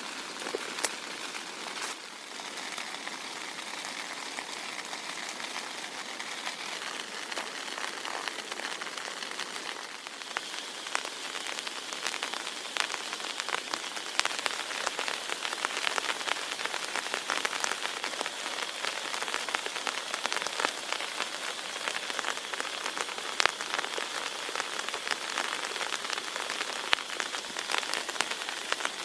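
Heavy rain falling steadily, with many individual drops ticking sharply against a surface; it grows a little heavier and denser about ten seconds in.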